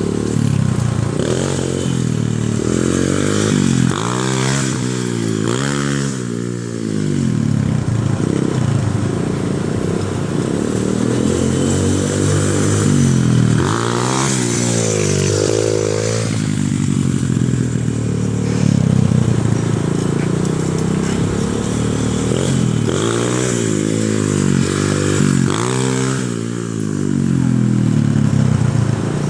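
125cc pit bike's single-cylinder engine running under load while ridden, its pitch rising and falling again and again as the throttle is opened and closed.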